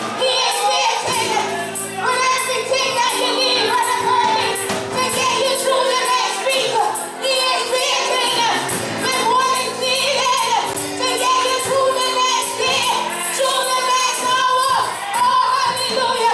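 Gospel singing led by a woman's voice over sustained instrumental chords.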